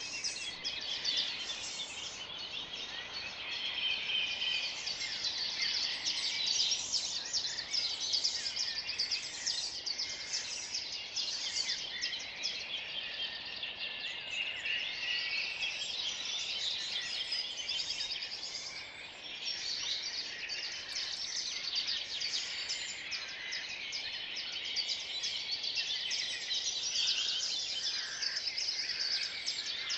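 Dawn chorus of many songbirds singing at once in spring, their songs overlapping densely throughout.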